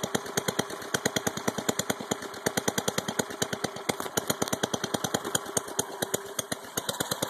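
8 HP Tecumseh single-cylinder four-stroke engine of a snow thrower running just after a cold start, a rapid, even putter of firing beats, about nine a second. It is running evenly while it warms up.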